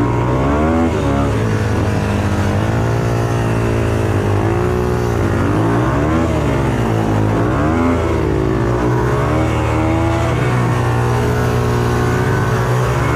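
Off-road motorcycle engine revving up and down again and again, its pitch rising and falling every second or so over a steady low engine note.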